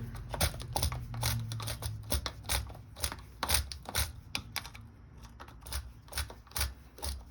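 Irregular light clicks and taps of hand tools and metal parts being handled while unbolting the carburetor from a small engine.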